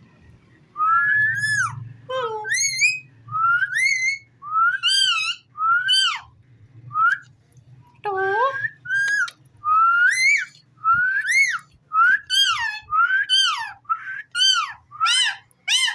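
Ring-necked parakeet whistling a long run of short notes that rise and fall, about one or two a second and quicker near the end.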